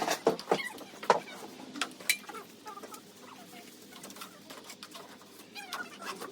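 Several sharp knocks or taps in the first couple of seconds, then faint short chirping calls.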